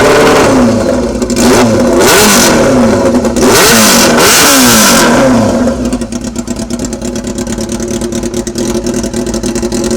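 Yamaha R6 inline-four engine on a loud, open exhaust, revved several times in quick succession, the pitch sweeping up and falling back each time, then dropping to a steady idle about five and a half seconds in.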